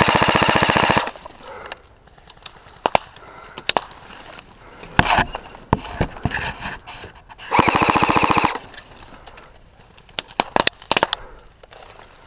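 Airsoft electric guns firing full-auto: two loud bursts of about a second each, one right at the start and one about 7.6 seconds in, with a rapid even rattle of shots. Scattered single sharp cracks of shots or BB impacts come between and after the bursts.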